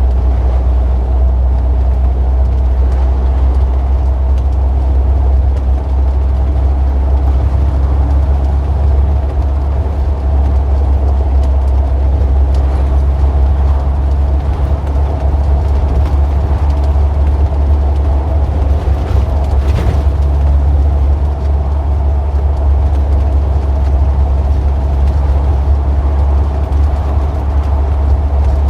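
Road vehicle engines in street traffic: a loud, steady low rumble with a few steady engine tones over it, unchanging throughout, and a faint click about twenty seconds in.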